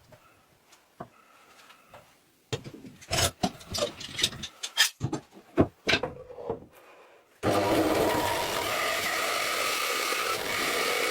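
Wood being knocked and scraped in irregular strikes, then from about seven seconds in a wood lathe running steadily with a turning tool cutting the spinning wood, starting suddenly.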